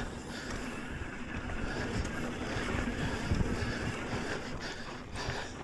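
Wind noise on the microphone over the steady rumble of a mountain bike rolling along a dirt trail.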